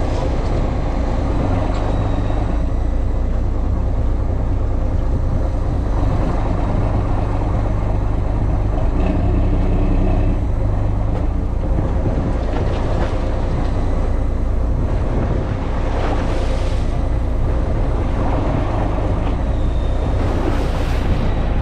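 A fishing boat's engine running steadily, a constant low rumble with a little water and wind hiss over it.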